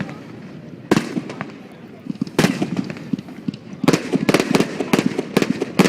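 Aerial fireworks bursting over a crowd: single loud bangs echoing about every second and a half, then a quick run of bangs and crackles in the last two seconds.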